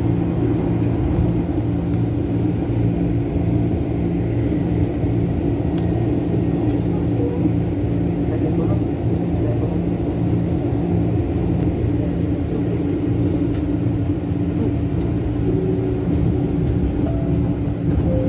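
KRL Commuter Line electric train running, a steady low drone of humming tones over a rumble, pulsing gently throughout.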